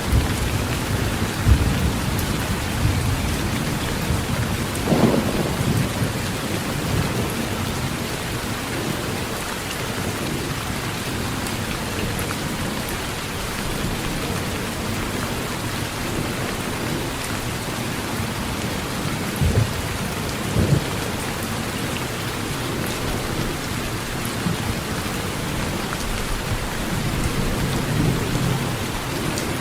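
Heavy rain drumming steadily on a tin roof, with low thunder rumbling at the start and building again near the end, and a few brief louder swells in between.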